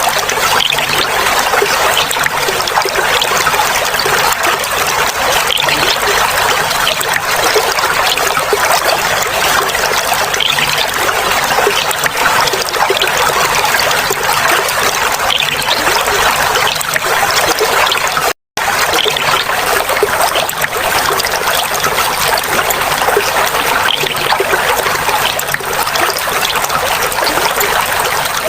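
Clear water flowing and babbling steadily. The sound cuts out for a split second about two-thirds of the way through.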